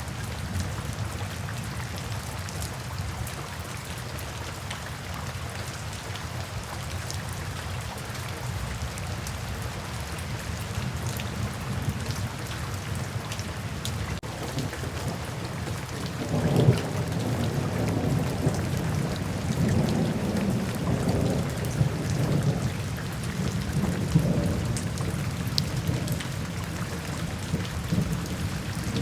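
Steady rain falling, with a low rumble of thunder coming in about halfway through and lasting most of the rest of the time.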